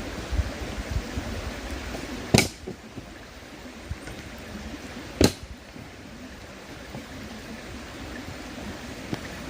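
Campfire wood crackling, with two sharp pops about two and a half and five seconds in, over the steady rush of a flowing river.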